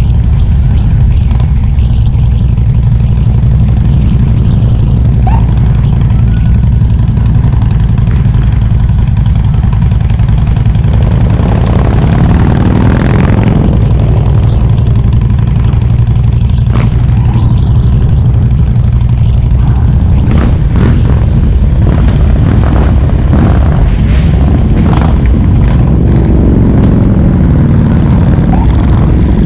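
Harley-Davidson V-twin motorcycle engine running on the move with a steady low rumble. Its pitch rises as the throttle is opened, about eleven seconds in and again near the end.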